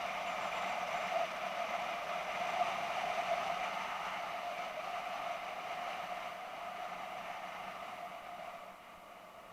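BMW F650GS motorcycle under way: steady engine and wind noise that fades over the last few seconds.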